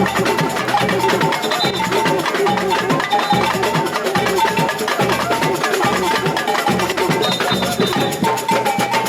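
Samba percussion band playing a steady samba rhythm: low bass-drum beats about twice a second under a repeating high clacking pattern.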